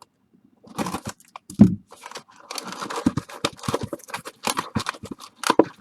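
Plastic bag crinkling and tearing as it is pulled open, with a dull thump about one and a half seconds in.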